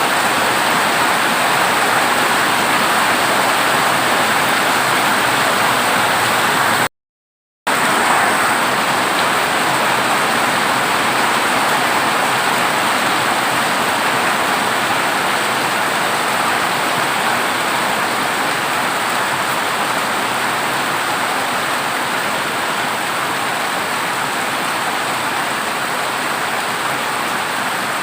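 Heavy rain falling on a dilapidated corrugated tin roof, a dense steady hiss with no thunder. The sound cuts out completely for under a second about seven seconds in.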